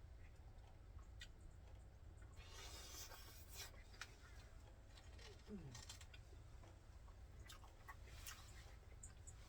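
Near silence: low room hum with a few faint, scattered clicks and a brief soft rustle.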